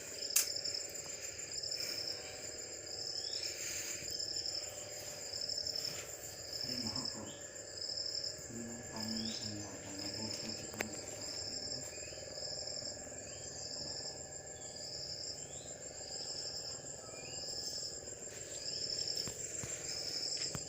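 Insects chirping: a short high chirp repeating evenly about every three-quarters of a second over a steady, higher continuous trill, with one sharp click about half a second in.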